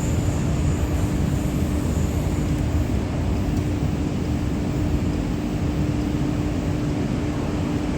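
MTR Kwun Tong line Q-Train running: a steady low rumble with a constant hum.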